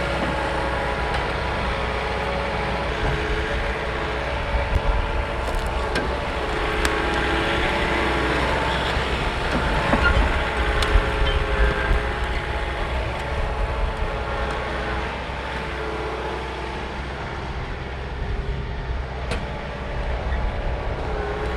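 Compact tractor's diesel engine working, its pitch shifting up and down with load as the grapple clears brush, with a few short knocks.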